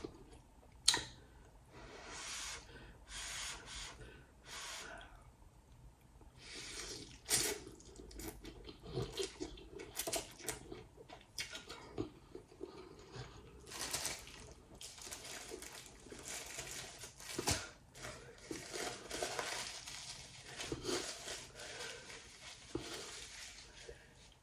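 Someone eating instant noodle soup with a spoon: scattered slurps and chewing, with a few sharp clicks of the spoon against the bowl.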